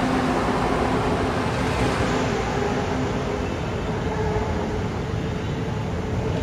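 LRT-2 2000-series Rotem light-rail train pulling away from the station: steady wheel and running noise with a few held motor tones, gradually fading as the train recedes.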